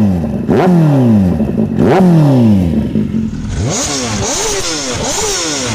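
BMW S1000RR inline-four motorcycle engine, revs jumping up sharply and falling away over about a second, three times in a row; from about halfway the rev changes become quicker and smaller, with a steady hiss over them.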